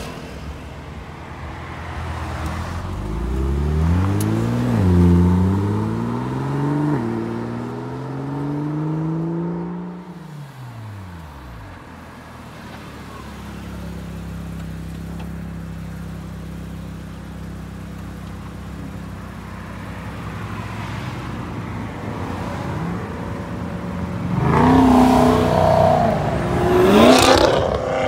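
A BMW M2's turbocharged straight-six accelerating hard, its pitch climbing through two upshifts and then falling away as the car leaves. This is followed by a Mazda RX-8's rotary engine pulling out at a steadier, lower note. Near the end a black BMW coupé revs loudly and accelerates away.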